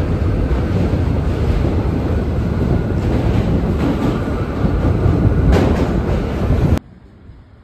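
New York City subway train running along the track: a loud, steady rumble with wheel clatter. It cuts off abruptly near the end, leaving only a quiet background.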